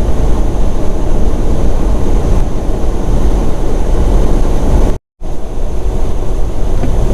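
Semi truck cab noise while driving: a steady, loud low rumble of engine and road. The sound cuts out completely for a moment about five seconds in.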